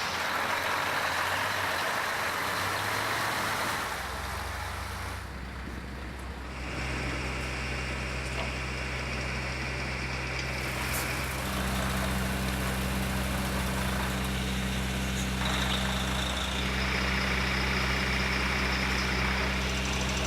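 Heavy vehicle engine running steadily with a low hum, after a few seconds of broad hissing noise at the start.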